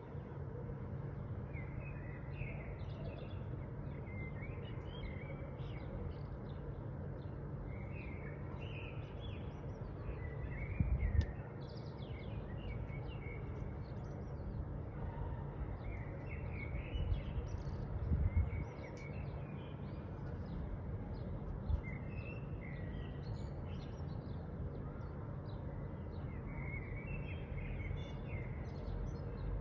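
Small birds chirping in short, repeated calls, over a steady low rumble of background noise. Louder low bumps come twice, about a third and about two thirds of the way through.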